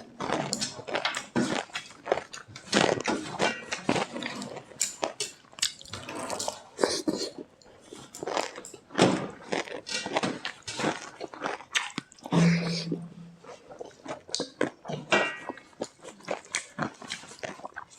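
Close-up eating sounds of rice, dal and fried pakoras: chewing, lip smacking and crunching in a rapid, irregular run of wet clicks, with a brief low hum about twelve seconds in.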